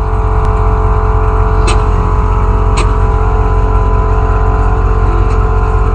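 Custom Chevy 1500 pickup giving off a loud, steady low rumble, with a few sharp clicks.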